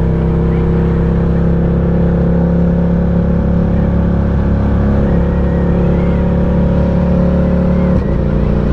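Ducati Diavel 1260's 1262 cc L-twin engine pulling at a steady speed while the bike is ridden, its note holding level. There is a brief dip about eight seconds in.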